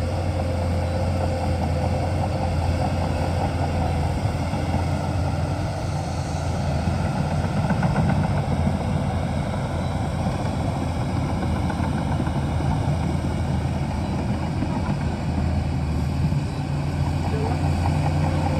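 Diesel engine of a Shantui DH17C2 crawler bulldozer running steadily, with a slight rise in level about eight seconds in.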